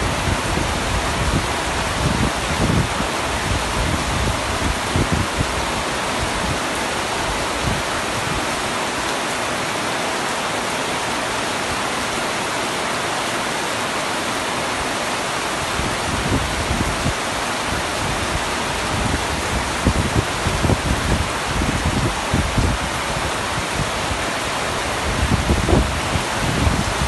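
Heavy rain falling steadily on a camping tent's roof, with irregular low thuds that ease off around the middle and come back through the second half.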